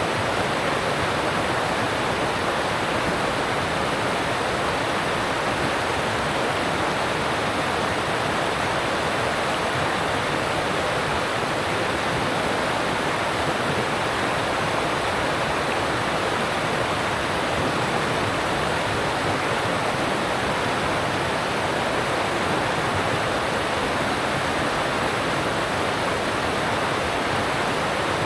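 Alpine stream rushing over rocks: a steady, even rush of water.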